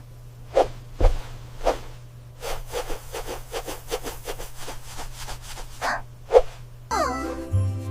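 A run of soft, short strokes, about five a second, over a low steady hum, with one stronger stroke after about six seconds. A light tinkling tune starts near the end.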